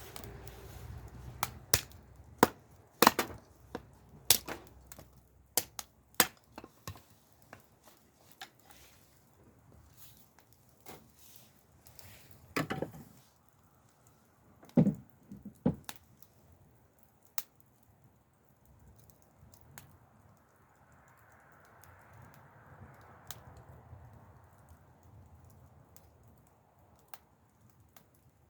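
Wood cracking and knocking: sharp, irregular snaps and knocks, thick in the first few seconds, with a couple of heavier knocks in the middle, then only scattered ticks.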